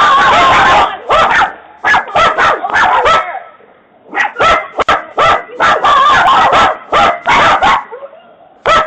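A dog barking in quick runs of short barks, with a brief pause near the middle, heard through a doorbell camera's microphone.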